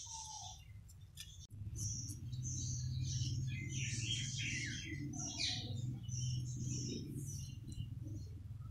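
Small birds chirping, many short high-pitched calls one after another, over a steady low hum that starts about one and a half seconds in.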